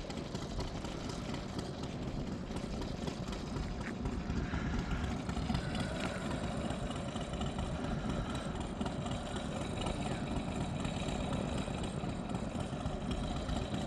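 Steady vehicle engine noise with no sudden events.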